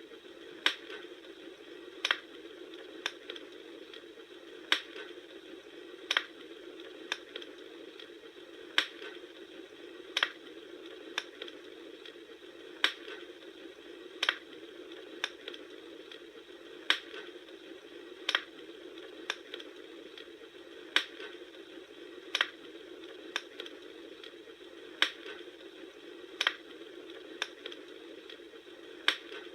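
Bonfire crackling: sharp wood pops about three times every four seconds in an evenly repeating pattern, over a steady rushing hiss of the flames.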